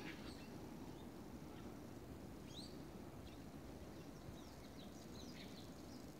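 Scattered forest birds calling faintly: short chirps and quick whistled notes, with one clearer rising whistle about two and a half seconds in and a flurry of short calls near the end, over a low steady background hum.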